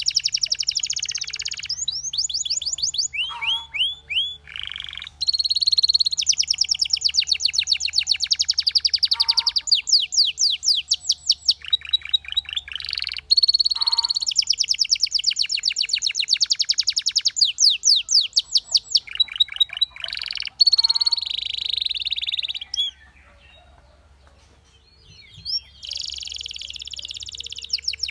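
Domestic canary singing: long rolling trills of fast repeated whistled notes that change speed and pitch from one run to the next, broken by brief pauses and a gap of about two seconds near the end before the song starts again.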